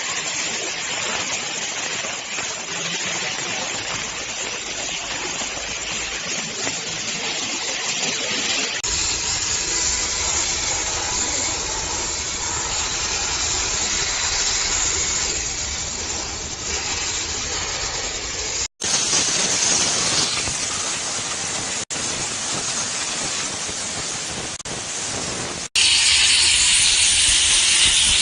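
High-temperature steam cleaner jetting steam from its nozzle: a steady hiss, broken several times by abrupt cuts where the sound changes in tone and loudness.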